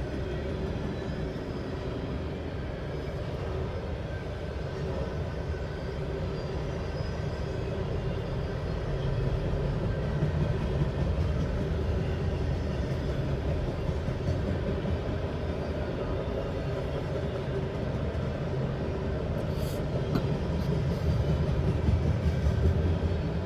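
Norfolk Southern freight train cars rolling past a grade crossing, a steady low rumble of wheels on rail that swells a little about a third of the way in and again near the end. Heard from inside a car stopped at the crossing.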